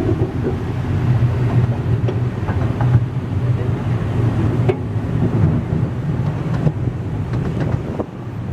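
Narrow-gauge railway carriage running along the track: a steady low rumble of the wheels, with a few sharp clacks now and then.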